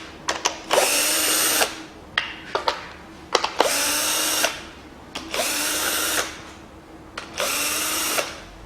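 A power driver with a 10 mm socket spins out the valve cover bolts one at a time, in four short runs of about a second each. Each run starts with a brief rising whine. Clicks of the socket and bolts fall between the runs.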